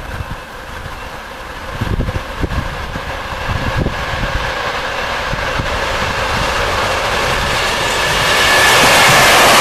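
ED4M electric multiple unit train approaching along the track. Its running noise and a faint whine grow steadily louder and reach their loudest near the end, with low thumps in the first few seconds.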